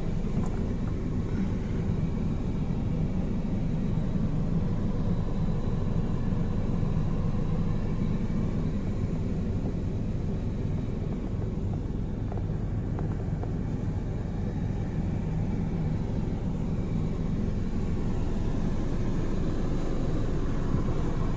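A Toyota Vitz's 1.0-litre three-cylinder engine idling steadily: an even low rumble that does not change.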